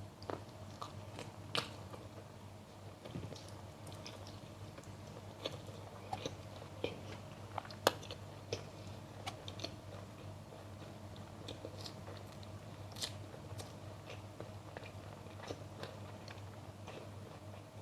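Close-up eating sounds: a person biting and chewing crunchy food, with irregular sharp crunches scattered throughout and one louder crunch about halfway through.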